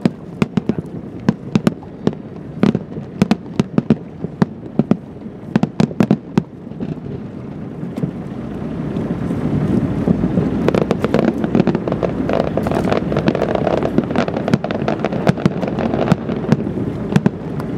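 Fireworks display: a rapid string of sharp bangs and crackles from bursting shells. About seven seconds in it builds into a dense, continuous rumble of many overlapping explosions as a rapid barrage fires.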